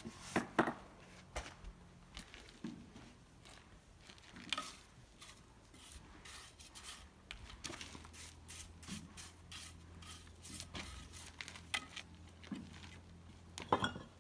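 Scattered faint scrapes and knocks of slate-laying work: stone pieces being handled and set down. A louder pair of knocks comes near the end.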